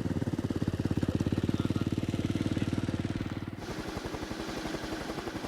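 An engine running with a fast, even pulse. About three and a half seconds in, the sound changes abruptly to a lower, rougher pulse.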